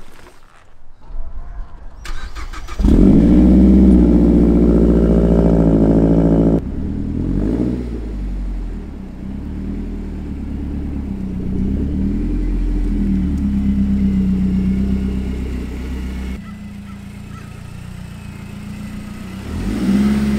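Mazdaspeed3's turbocharged four-cylinder engine comes in loud and steady about three seconds in, then its pitch rises and falls as the car is revved and driven. It drops quieter for a few seconds and swells again near the end.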